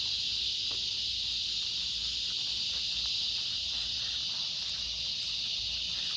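Cicadas singing in chorus: a steady, high-pitched buzzing drone.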